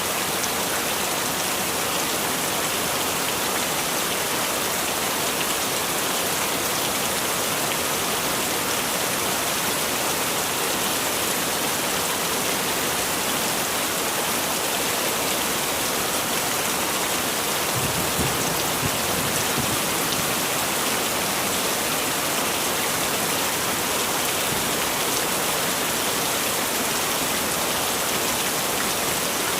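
Heavy rain falling steadily, a dense even hiss of rain on surfaces. A brief low rumble rises under it about two-thirds of the way through.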